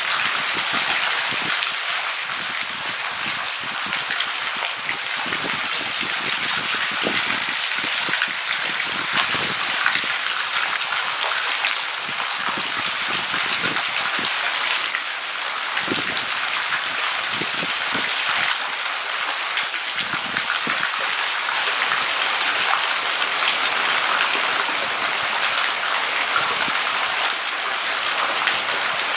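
Steady heavy rain: an even hiss of falling rain with many individual drops hitting close by.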